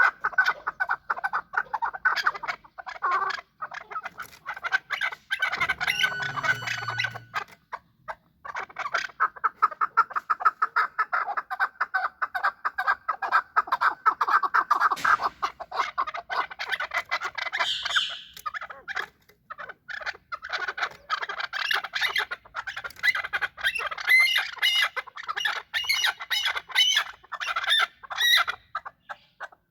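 Chukar partridge calling: long runs of quick, repeated clucking notes, broken by a few short pauses.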